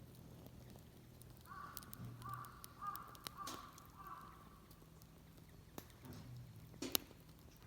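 A crow cawing, a run of about four caws in quick succession, faint, with a couple of sharp snaps, one in the middle and one near the end.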